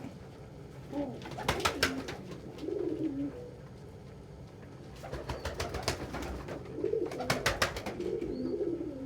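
Domestic pigeons cooing: low, wavering coos several times. Two quick clusters of sharp clicks or flaps come about one and a half seconds in and again near the end.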